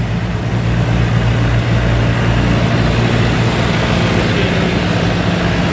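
Engine of a pressure washing and wash water recovery rig running steadily, a loud constant hum with a noisy hiss above it.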